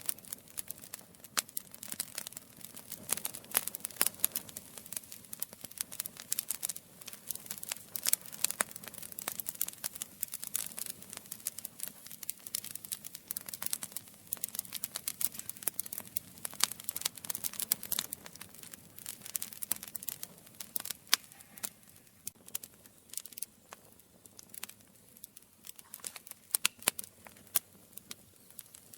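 Campfire burning, its wood crackling with a dense, irregular run of sharp pops and snaps over a soft low rumble of flame; the pops thin out somewhat near the end.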